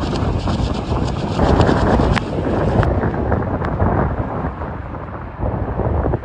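Strong gusting wind buffeting the microphone over rough sea waves breaking on rocks, a dense, rumbling roar with a few sharp ticks. It eases briefly near the end, then picks up again.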